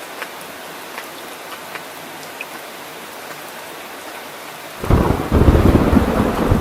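Steady rain falling, with scattered drop ticks. Near the end a loud, low thunder rumble comes in suddenly and keeps going.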